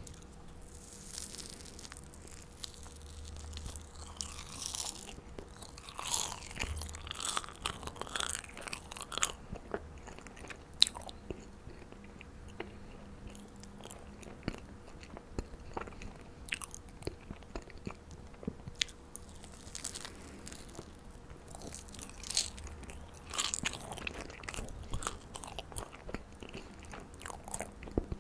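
Close-miked biting and chewing of marshmallows: irregular mouth clicks and short bursts of chewing noise.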